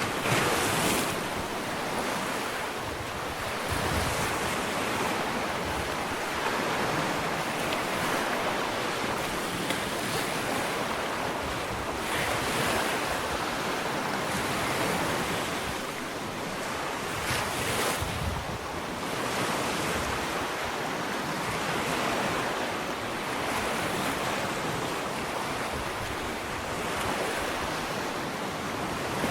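Ocean waves breaking and washing up a sandy beach, a continuous surf hiss that swells and ebbs every few seconds, with one stronger surge a little past the middle. Wind is on the microphone.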